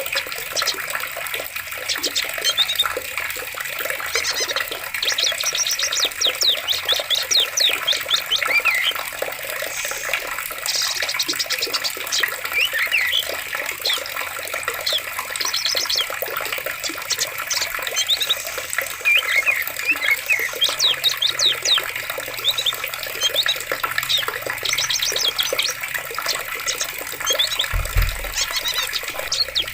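Steady flowing water with many small birds chirping over it, calling in quick repeated notes and occasional rapid trills. A brief low bump near the end.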